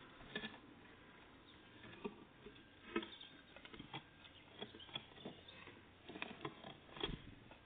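Tits pecking and scrabbling at a peanut feeder: irregular light taps and scratches, about a dozen, the sharpest about three seconds in.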